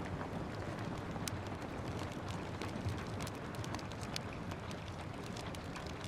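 Steady rain with a wood fire crackling, its sharp pops and snaps scattered irregularly over the even hiss of the rain.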